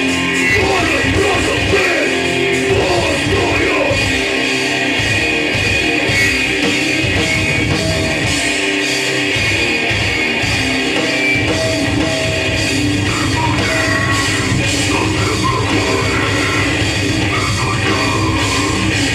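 Hardcore punk band playing live: loud, dense distorted electric guitars with a band behind them, the low end filling out more fully part way through.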